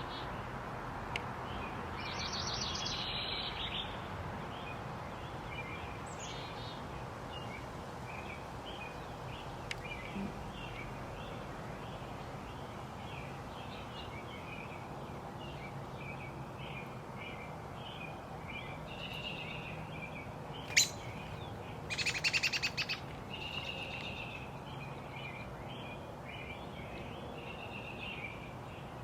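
Backyard songbirds chirping continuously in quick short notes, with a louder rapid trill about two seconds in and the loudest trill about three-quarters of the way through, just after a sharp single note. A steady low background noise runs underneath.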